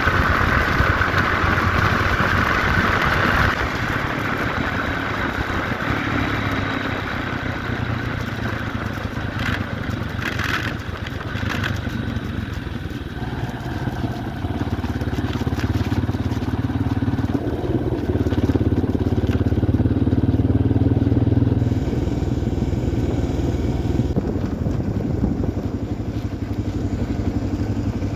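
1990 Yamaha XT350's single-cylinder four-stroke engine running while the bike is ridden along a trail, its note shifting with throttle and gear changes about halfway through and again later.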